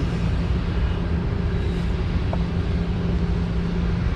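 A steady, low machine hum with a constant pitch over a low rumble, and a faint short tick a little past halfway.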